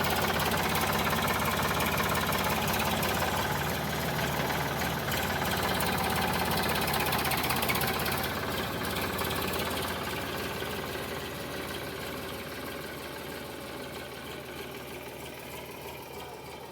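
Sonalika DI 745 tractor's diesel engine running steadily with a knocking diesel beat, growing gradually quieter.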